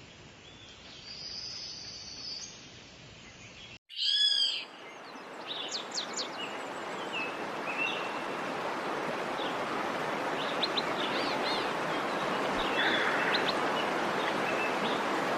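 Birds calling and chirping in a natural soundscape. About four seconds in, the sound stops abruptly, then a loud run of quick, high, arching calls starts. Short high chirps follow over a steady rushing background that slowly grows louder.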